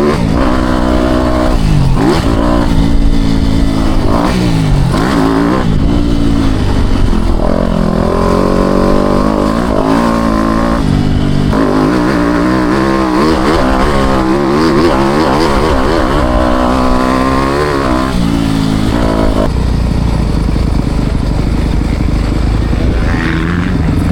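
Four-stroke motocross bike engine ridden hard, its pitch climbing and dropping again and again with throttle and gear changes. Near the end it settles to a steadier, lower note.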